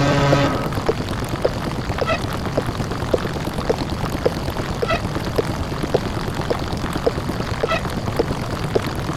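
Distorted, bass-boosted ("deep-fried") microwave-oven hum meme sound effect, running as a steady rough drone. Short ticks come about twice a second, and a brighter tick every few seconds. A buzzy pitched tone at the start stops about half a second in.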